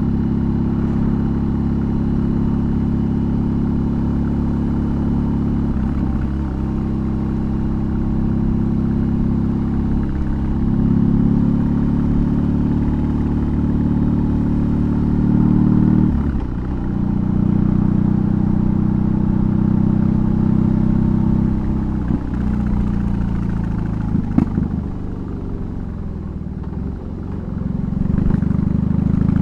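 BMW R18's 1802 cc two-cylinder boxer engine with a custom exhaust, heard from the saddle while riding. It runs steadily under way, its pitch dropping and picking up again several times; the deepest dips come about sixteen seconds in and again near the end.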